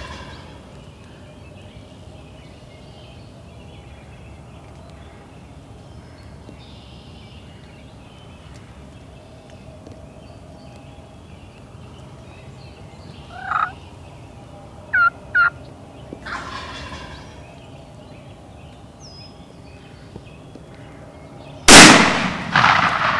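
Wild turkey gobbler calling a few times: a rattling gobble, two short high chirps, then another gobble. Near the end a single very loud shotgun blast goes off and rings out.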